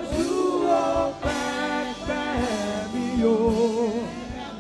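Gospel worship music: held, wavering sung notes over sustained keyboard chords, with a few light percussive strokes.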